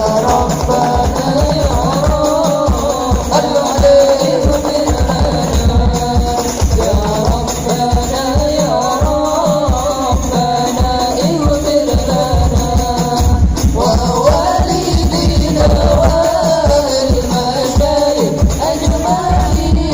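Habsyi ensemble playing frame drums in a steady, busy rhythm, with a wavering sung melody over it as the group sings sholawat.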